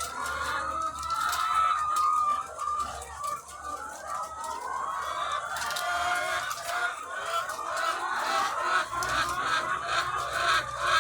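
A large flock of egg-laying hens clucking and calling over one another in a dense, continuous chorus.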